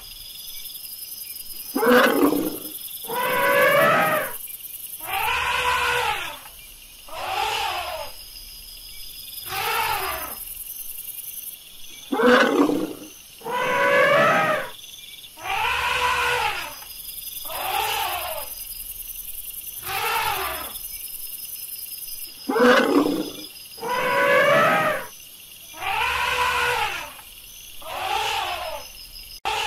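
Elephant calls repeated about once every two seconds, each about a second long, with a pitch that arches up and down.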